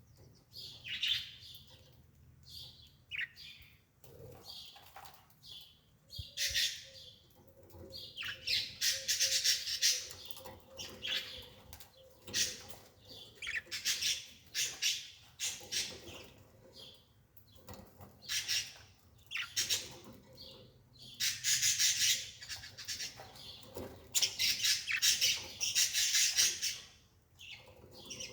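Birds chirping in repeated short bursts, with clusters of chirps throughout.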